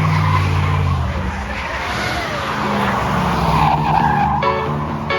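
A car's engine running steadily, then its tyres skidding and squealing on wet pavement as it slides. Music comes in near the end.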